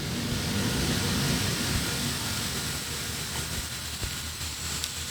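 Steady rushing background noise with no playing, and a few faint clicks near the end.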